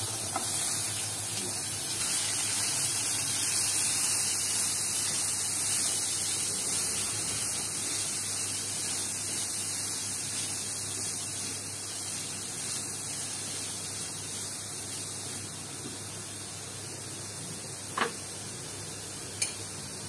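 Diced white radish sizzling in hot oil in an iron kadhai, a steady hiss that slowly dies down as it is stirred. Near the end the spatula knocks twice against the pan.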